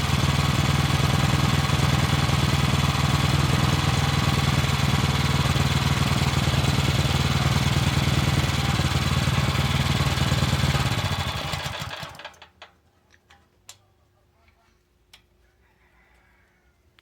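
Brait 17 hp petrol engine running steadily, then dying away about eleven seconds in as it is shut off by pulling the spark plug cap: the ignition key switch does not stop it. A few faint clicks follow.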